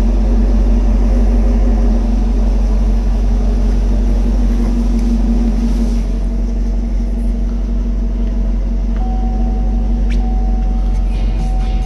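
2020 Chevrolet Camaro SS's 6.2-litre LT1 V8 idling with a steady low rumble shortly after a cold start, dropping slightly in level about halfway through.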